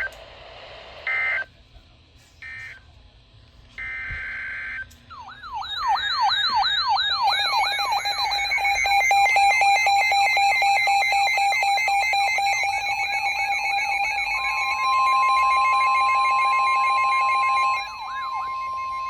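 Electronic emergency alert tones between two severe thunderstorm warnings. A few short beeps come first, then a fast warbling siren sweeps up and down over a steady tone, and a second steady alert tone comes in near the end.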